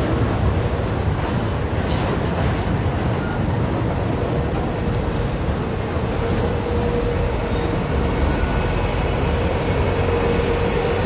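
Freight train of trailer-carrying flatcars rolling past and away, a loud steady rumble of wheels on rail. A thin squealing tone from the wheels grows stronger in the second half.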